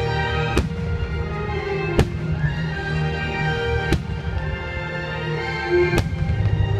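Fireworks shells bursting overhead, four sharp bangs about two seconds apart, over the show's music soundtrack.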